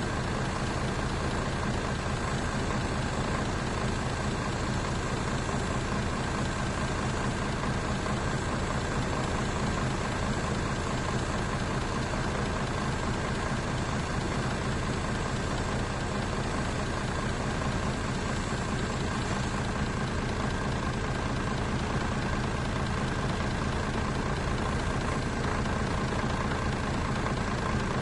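Mercedes-Benz bus engine idling steadily, with a low rumble and a faint steady whine.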